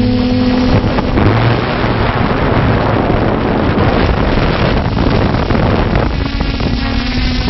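Multirotor drone's propellers and motors running, heard as a rushing noise with wind buffeting its microphone; a steady motor hum drops away about a second in and comes back near the end.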